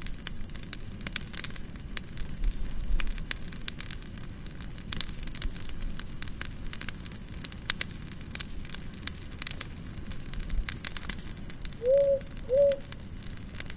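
Campfire crackling and popping, with a cricket chirping in a regular run of about three chirps a second in the first half. Near the end come two short, low calls from an animal.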